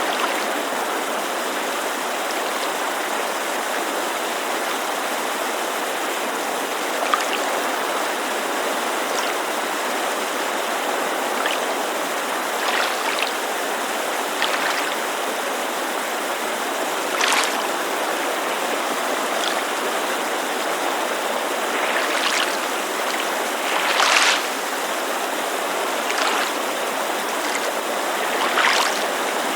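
Steady rush of a mountain creek, with small waves lapping against a lakeshore in brief splashes every few seconds, irregularly spaced.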